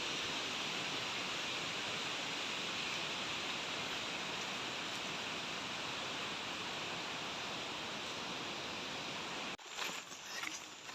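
Steady rushing roar of a large waterfall, Dudhsagar Falls. It cuts off abruptly about a second before the end, giving way to quieter sound with a few light clicks.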